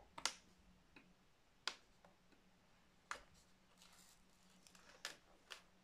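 A metal spatula pry tool clicking and tapping against a laptop's plastic bottom case as a rubber foot strip is prised off. About six sharp, separate clicks come at uneven intervals.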